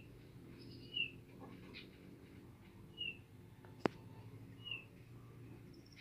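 Tledekan bird in an aviary giving short, falling chirps, three of them about two seconds apart. There is a single sharp click near the middle, and a faint low hum underneath.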